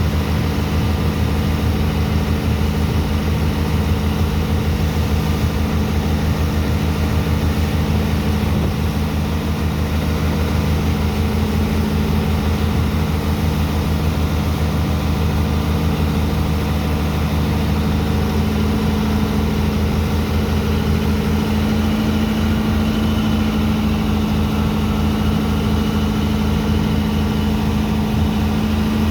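Diesel engine of a sand-dredging pump machine running steadily while it unloads sand from a barge.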